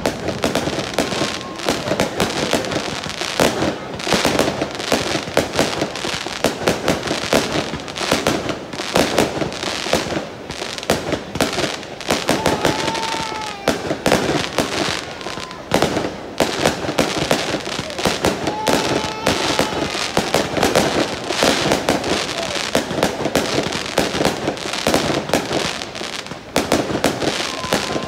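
Aerial fireworks going off in a dense, nearly continuous barrage of bangs and crackling shells.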